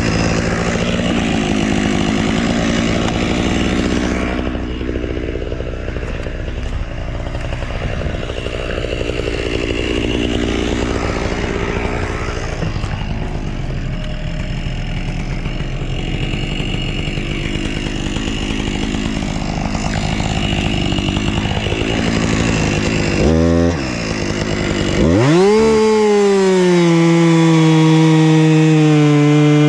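Husqvarna chainsaw running at lower speed, then revved to full throttle about 25 seconds in, its pitch sagging slightly as it cuts into wood.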